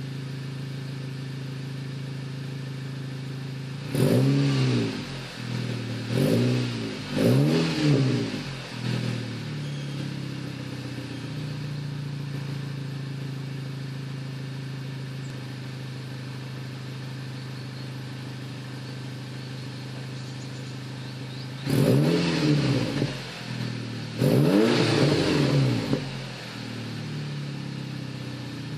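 Car engine idling through a 76 mm exhaust with one MG Race muffler and one resonator, revved in short blips: three quick revs a few seconds in, then a long idle, then two more revs near the end, the last held a little longer. Each rev rises and falls in pitch and settles back to a steady idle.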